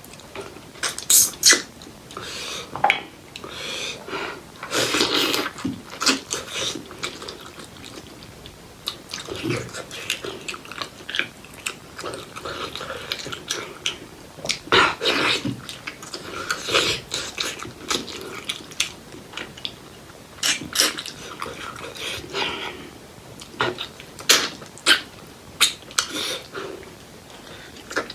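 Close-miked eating sounds from pork leg curry with rice: irregular wet chewing, smacking and sharp mouth clicks.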